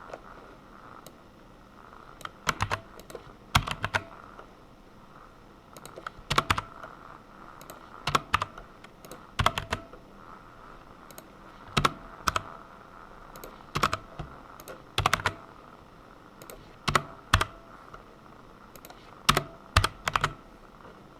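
Computer keyboard typing in short runs of a few keystrokes every second or two, with pauses between, over a faint steady hum.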